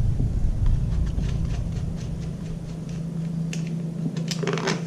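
A steady low hum, with a few light clicks and knocks near the end as the plastic air filter box is pulled off a lawnmower engine.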